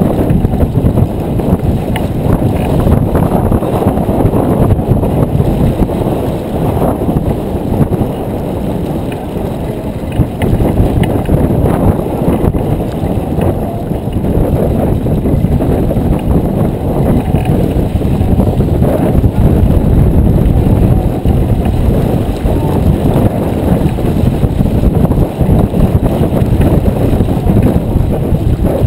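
Wind buffeting the microphone aboard a J24 sailboat under way: a continuous low rumble that rises and falls in gusts.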